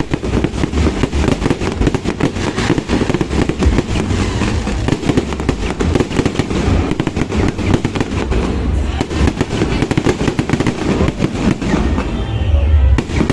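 Aerial fireworks going off in a dense, continuous barrage: rapid cracks and crackling over a steady run of deep booms, with no pause.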